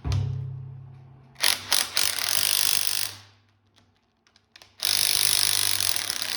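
Power wrench run in two bursts on the cylinder head bolts, not strong enough to break them loose; it opens with a knock and a low hum that fades out.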